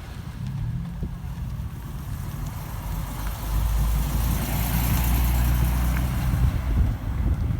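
A car engine running as the car drives past, growing louder from about three and a half seconds in and closest about five seconds in.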